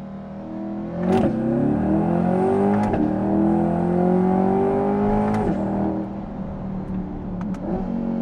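Chevrolet C8 Corvette's 6.2-litre LT2 V8 through a titanium catback exhaust with its valves open, heard from inside the cabin with the rear window open. The engine pulls up through the revs from about a second in, shifts with a sharp crack near three seconds and pulls again, then lifts off after about five seconds. A few sharp pops follow on the overrun near the end.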